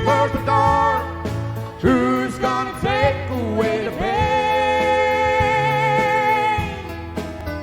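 Country band playing an instrumental break: a sliding, bending guitar lead carries the melody over bass, drums and piano. About four seconds in it settles on a long held note with vibrato.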